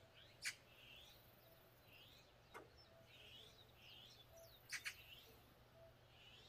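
Faint chirping of small birds: short rising notes repeated about once a second, with a few sharp clicks among them.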